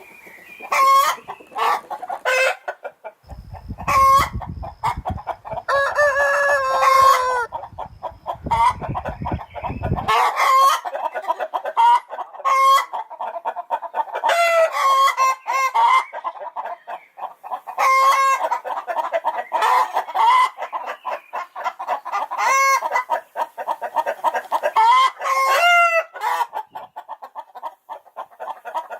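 Chickens clucking loudly and repeatedly in short pitched calls, with one longer drawn-out call about six seconds in. A low rumble runs under the calls from about three to ten seconds in.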